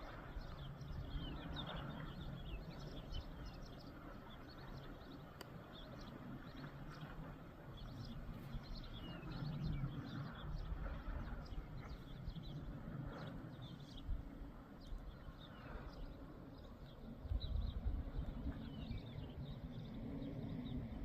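Small birds chirping in many short, repeated calls, over a low rumble of wind on the microphone that swells twice.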